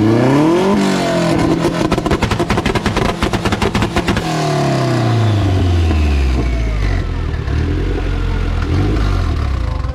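Car engine revved hard, with about three seconds of rapid crackling exhaust pops while it is held high; the revs then fall away and settle. The pops go with the exhaust shooting flames.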